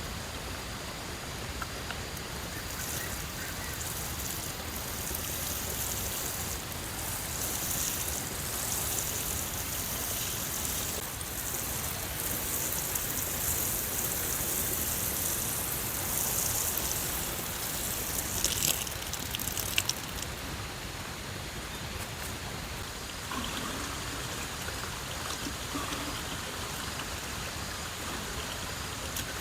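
Steady hiss of falling or running water, brighter and louder through the middle, with a few sharp taps a little before twenty seconds in.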